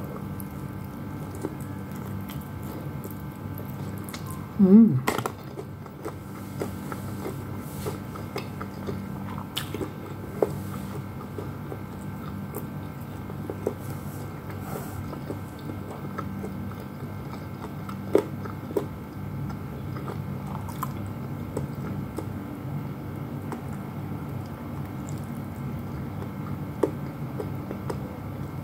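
Close-up chewing and biting of crispy fried chicken from McDonald's, with small clicks and crunches of the breading, over a steady low hum. About five seconds in comes one brief, loud pitched sound that rises in pitch.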